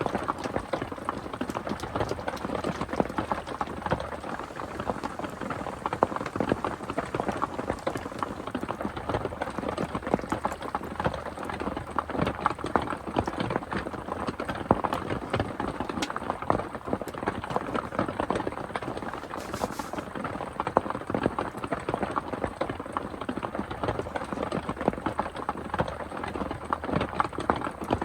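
Heavy rain falling steadily, a dense patter of many drops hitting a surface.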